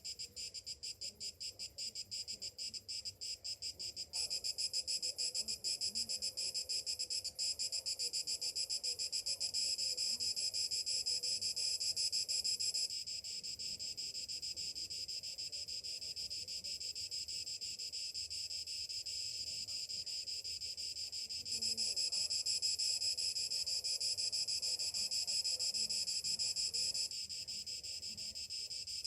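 Chorus of cicadas buzzing in a high-pitched drone. It pulses rapidly at first, turns denser and louder about four seconds in, then eases off and swells again a couple of times.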